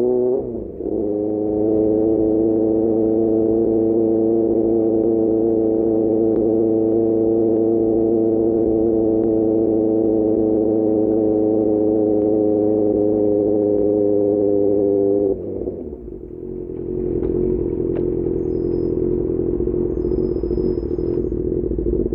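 QJMotor SRK600 inline-four motorcycle engine running through an Austin Racing GP1R exhaust at steady revs while riding, with a brief dip in pitch about half a second in. About fifteen seconds in, the even note falls away to a lower, rougher sound.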